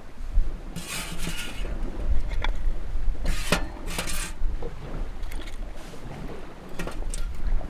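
Strong wind buffeting the microphone in gusts, with a few short rushes of noise about one, three and a half, and four seconds in.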